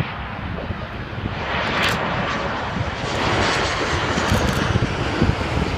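Jet noise from a Boeing 737-800's CFM56-7B turbofan engines, a steady rush that grows louder about a second and a half in and again about three seconds in.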